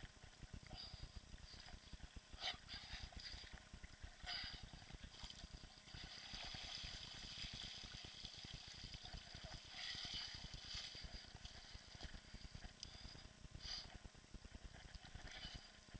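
Faint moving water with a low wind rumble on the microphone, and brief small knocks or splashes about two and a half and four seconds in.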